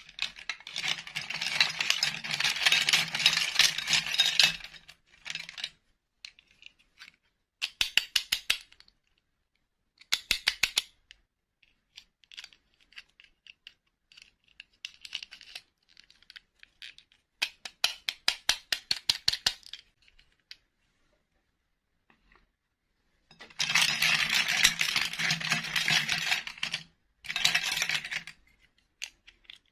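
Small hard plastic toys rattling and clicking in repeated bursts. Two longer bursts, one at the start and one near the end, each last about four seconds and have a low hum under them. Shorter clattering bursts come in between.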